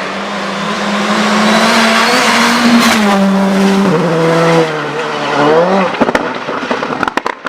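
Two-wheel-drive rally car engine running hard at high revs, its pitch dropping in steps about three and four seconds in as it shifts, then rising briefly. A quick burst of sharp cracks follows near the end.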